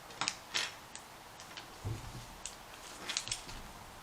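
Plastic Mega Bloks building blocks clicking as they are handled and pressed together, a string of sharp irregular clicks with a dull knock about two seconds in.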